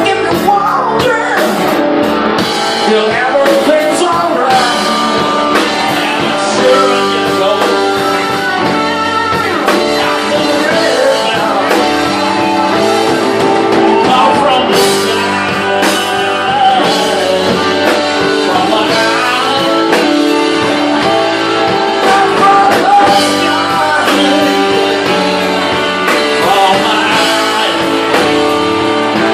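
Live electric blues band playing a slow blues, with electric guitar and singing over a drum kit.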